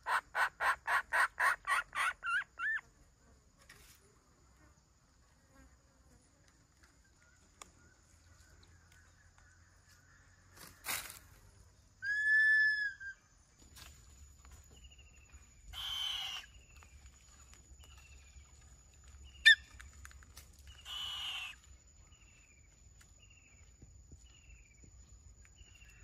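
Bird calls: a quick series of about ten harsh, rasping calls in the first three seconds, later a single whistled note, two harsh hissing calls a few seconds apart, and faint short falling chirps near the end.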